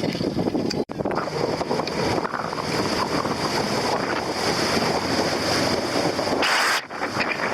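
Wind buffeting the microphone over water rushing along a sailing dinghy's hull, a steady noise with a short break about a second in.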